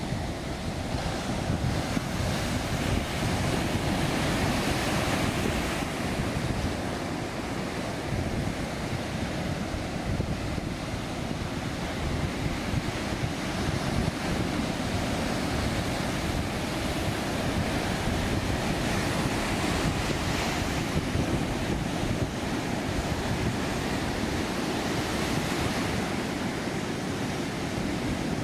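Heavy ground-swell surf (mar de leva) breaking and washing up the beach in a continuous rush that swells and eases as the waves come in, with wind buffeting the microphone.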